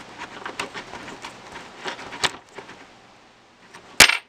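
Small irregular clicks and taps of a metal 4-way wrench on a hinge-pin nut and plastic suspension parts as the nut is tightened, then one sharp knock near the end.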